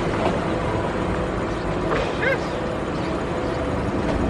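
Automatic car wash machinery running around a car, a steady dense wash of noise with a low rumble, heard from inside the car. A brief warbling sound cuts through about two seconds in.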